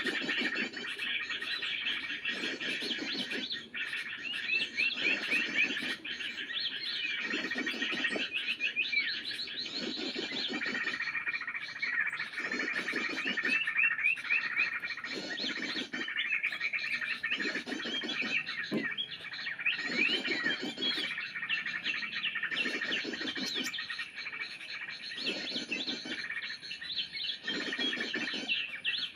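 Dense, continuous bird chirping and twittering, with a call pattern that repeats roughly every two seconds.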